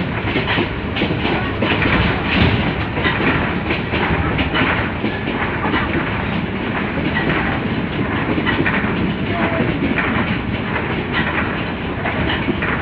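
Myanmar passenger train running along the line, its wheels clattering over the rails in a steady run of knocks over a continuous rumble.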